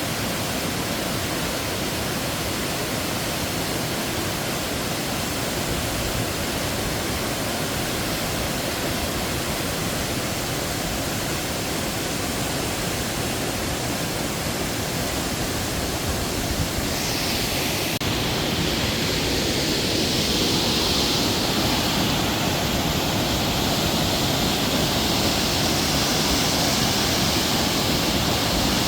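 Waterfall rushing steadily, a dense, even roar of falling water. About two-thirds of the way through it grows a little louder and hissier.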